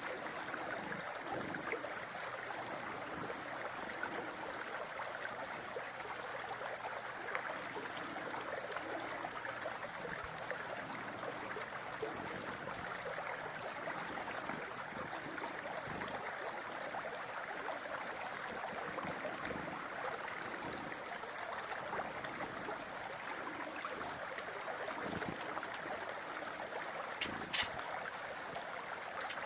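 Steady rushing noise, like running water, with a few sharp clicks near the end.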